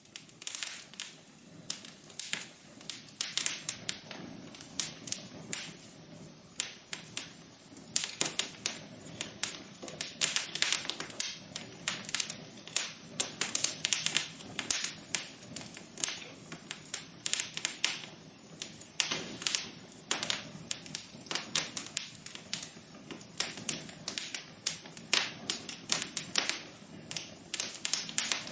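Wood fire burning in a fireplace, crackling: dense, irregular pops and snaps over a low steady hiss of flame.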